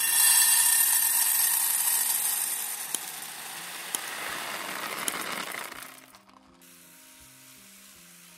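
Food sizzling in hot oil in a pan: a loud hiss that sets in suddenly with a click, eases off, and breaks off about six seconds in, over soft background music.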